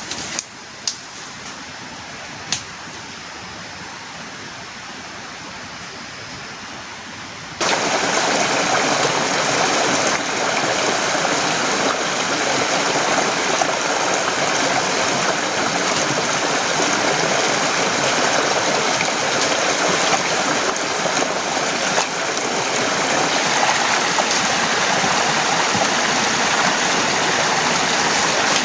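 Rain falling, a steady hiss with a few sharp drip taps at first, then abruptly much louder about eight seconds in as a heavy downpour that keeps on steadily.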